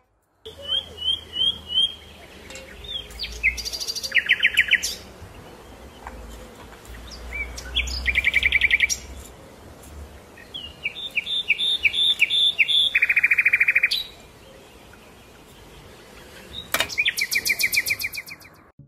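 Small songbirds singing in short, high phrases of repeated chirps and quick trills a few seconds apart, with a faint low rumble underneath for the first half.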